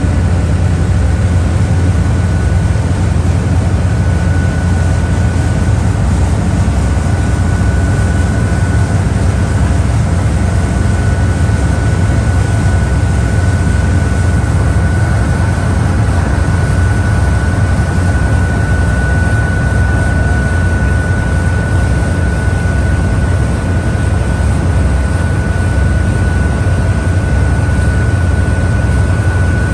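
A boat's engine running steadily at cruising speed, a loud low drone with a constant high whine over it.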